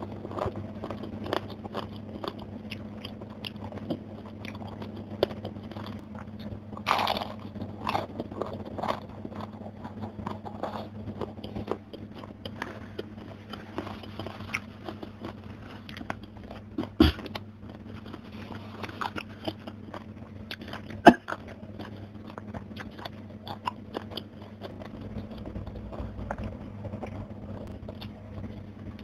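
Close-miked chewing and crunching of crispy fried fish coated in sambal with petai beans: a steady run of small crunches, wet chews and mouth clicks, with two sharp clicks standing out, the louder one about two-thirds of the way through. A faint steady low hum runs underneath.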